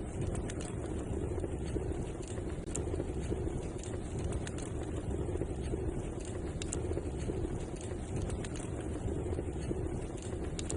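Fireplace wood fire crackling: scattered sharp pops and snaps over a steady low-pitched noise.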